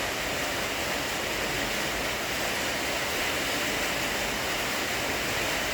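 Steady rushing noise of a storm, an even hiss with no breaks or single events.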